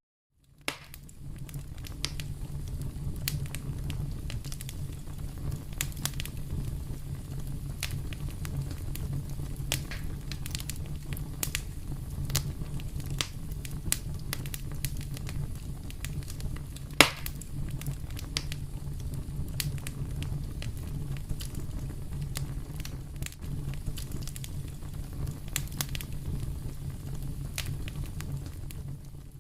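Fireplace fire crackling and popping over a steady low rumble of the flames, with one much louder pop a little past halfway. The sound drops out briefly at the very start.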